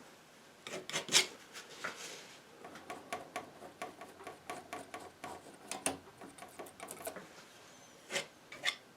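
Palette knife scraping and dabbing oil paint in short, irregular strokes, the loudest about a second in.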